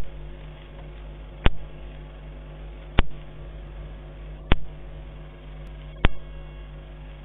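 An unidentified bird's short, sharp click-like call, repeated evenly about every one and a half seconds, five times, over a steady low hum.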